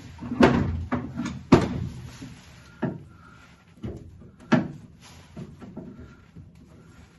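A series of sharp clunks and knocks from hand work on a 1967 Mustang door shell during disassembly. The loudest come about half a second and a second and a half in, with smaller ones near three and four and a half seconds.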